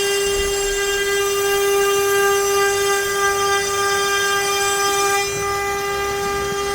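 CNC router spindle running at a steady high whine while the bit cuts letters into pine, with a cutting hiss over the whine that eases about five seconds in.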